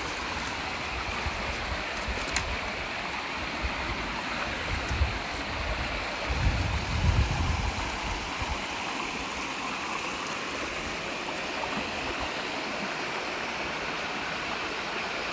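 A brook running steadily, a continuous rush of water. A gust of wind buffets the microphone with a low rumble about six seconds in, lasting around two seconds.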